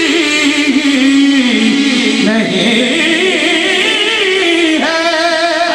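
Male voice singing a manqabat, an Urdu devotional poem, in long held notes that bend and glide in pitch, without a break.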